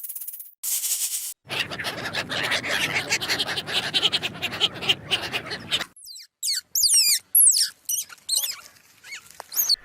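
A scratchy, rustling noise with many quick ticks, followed in the second half by a run of short high-pitched animal calls that slide quickly in pitch.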